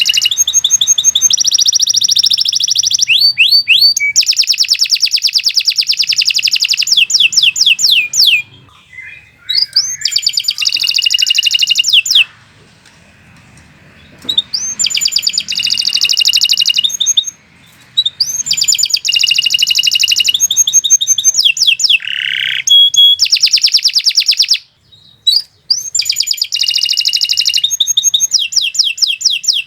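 Domestic canary singing long, continuous song phrases of rapid trills and fast repeated high notes, broken by a few short pauses, the longest about two seconds near the middle.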